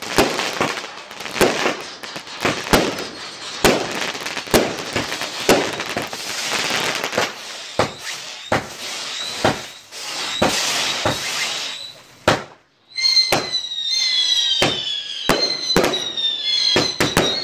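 Fireworks going off in a rapid string of sharp bangs with crackling. After a short pause about twelve seconds in, whistling shots follow, each whistle slowly falling in pitch, among more bangs.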